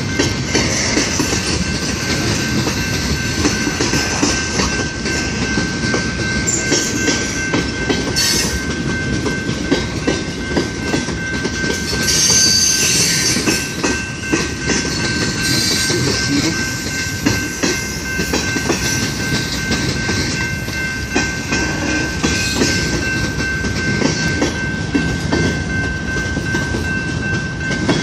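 Freight cars of a long mixed freight train rolling past, with a steady rumble and the clickety-clack of wheels over the rail joints. A thin, steady high-pitched squeal runs throughout.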